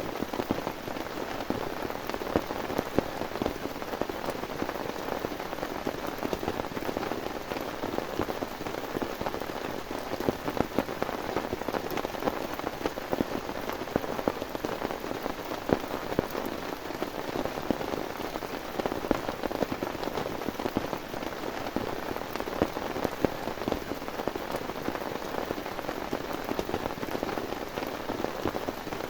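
Heavy rain falling steadily, a dense patter of many drops striking a surface, unchanging in strength.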